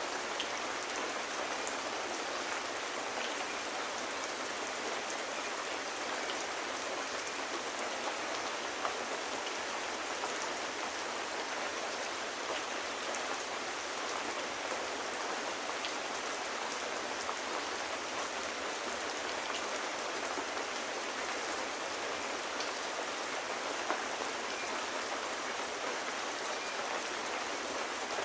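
Steady rain falling on hard surfaces, an even hiss with scattered drop ticks and a couple of slightly sharper ticks.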